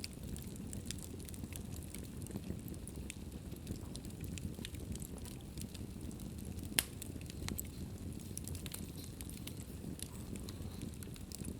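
Wood fire burning in a fireplace: a steady low rumble of flames with scattered small crackles and one sharp louder pop about seven seconds in.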